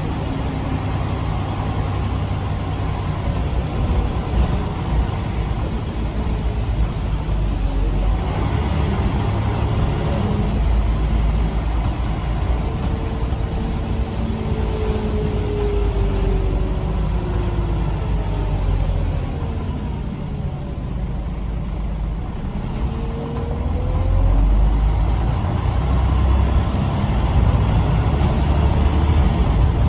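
Scania CN94UB OmniCity bus heard from on board: the five-cylinder diesel rumbling with the whine of its ZF automatic gearbox. The whine falls in pitch as the bus slows about halfway through, then rises again as it pulls away and the engine gets louder.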